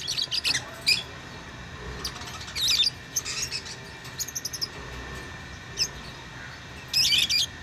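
Lovebirds chirping: short, sharp, high chirps in scattered clusters, the busiest and loudest near the end, over a steady low hum.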